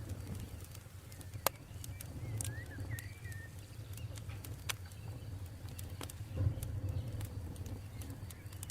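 Campfire crackling: scattered sharp pops and snaps over a low steady rumble, with a short bird chirp about two and a half seconds in.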